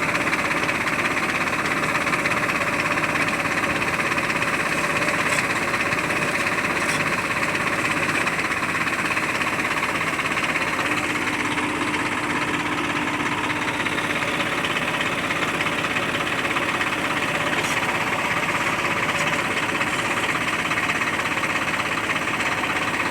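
Heavy farm or construction vehicle's diesel engine running steadily at an even speed.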